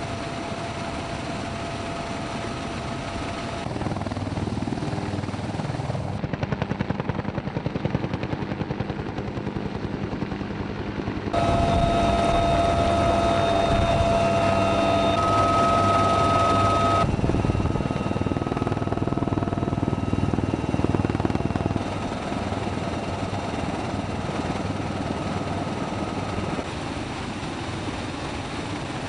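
US Marine Corps helicopter running, its rotor beating over a steady turbine whine. The sound comes in several edited shots, with the loudness jumping at each cut, and is loudest through the middle.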